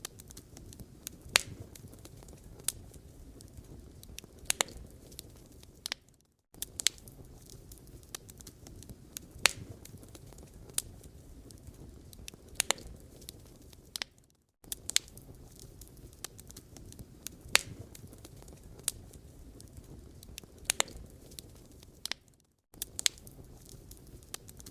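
Wood fire crackling in a fireplace: irregular sharp pops and snaps over a low steady rumble of burning logs. The sound cuts out briefly three times.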